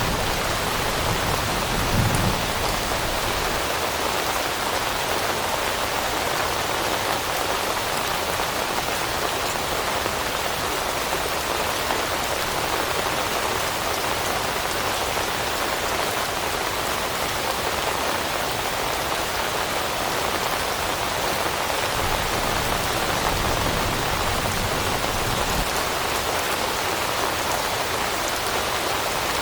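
Steady rain falling, a dense patter of raindrops on leaves, with a brief low rumble about two seconds in.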